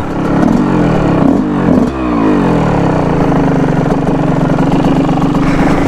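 Yamaha YZ125 two-stroke dirt bike engine revved a few times in quick succession, then settling into a steady idle; the bike had been on the point of shutting off.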